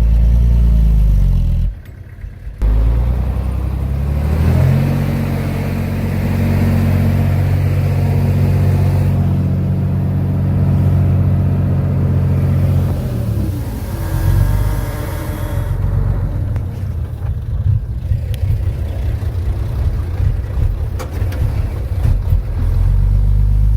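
Heavy diesel engine of earthmoving machinery running hard, its pitch shifting. It drops out briefly about two seconds in, runs steadily through the middle, then goes rougher and more uneven in the second half.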